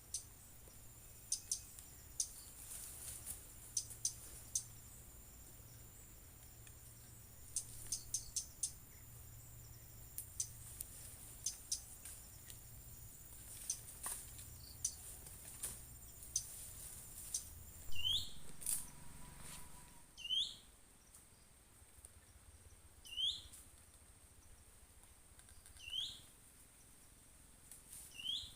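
Tropical forest ambience: a steady high insect whine with scattered sharp clicks, which fades out about two-thirds of the way through. After that a bird repeats one short hooked whistle about every three seconds.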